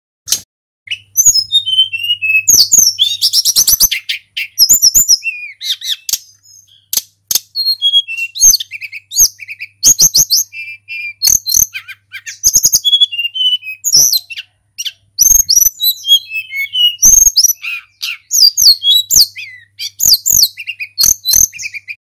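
Tledekan gunung flycatcher singing a long, varied song of quick chirps, trills and short whistled slides, broken by brief pauses.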